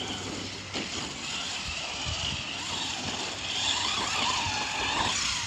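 Traxxas Slash 4x4 RC truck's electric motor whining as it is driven, the pitch wavering up and down with the throttle. A brief knock comes under a second in.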